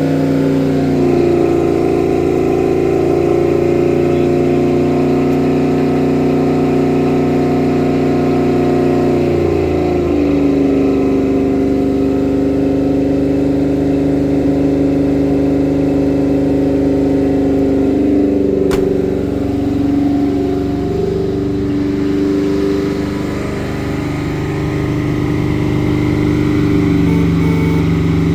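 A 1971 Chevrolet C10 pickup's engine running at idle on a cold start, with a steady, even note. Its idle speed drops about ten seconds in and shifts again a little after halfway.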